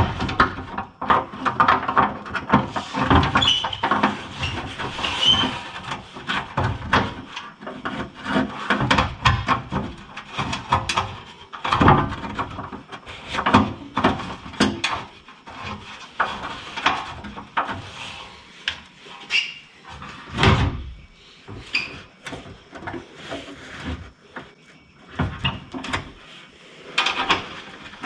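Hand work on parts with tools: irregular knocks, clicks and scraping as pieces and tools are handled, with no steady rhythm.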